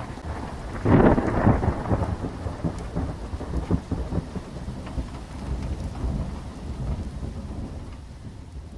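Thunder sound effect with rain: a loud clap about a second in, followed by a crackling rumble over a steady hiss of rain that slowly fades out near the end.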